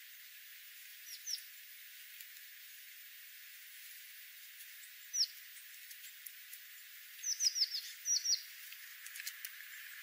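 Small birds chirping: short, high chirps that fall in pitch. Two come about a second in and one about five seconds in, then a quick run of about seven near the end. Faint clicks are scattered between them.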